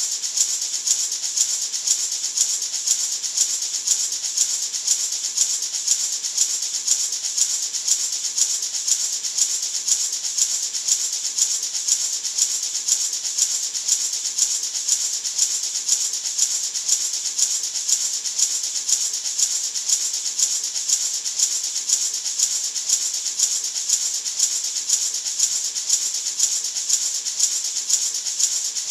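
Natural gourd maraca shaken continuously in an even, steady rhythm. The seeds inside rattle with a bright, hissing sound, used as white noise.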